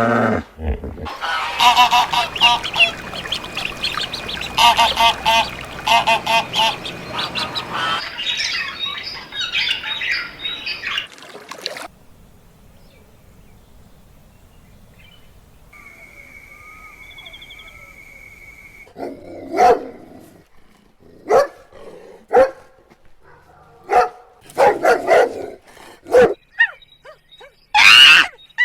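Birds calling: a dense stretch of many overlapping calls in the first part, then a run of separate loud calls in the last third.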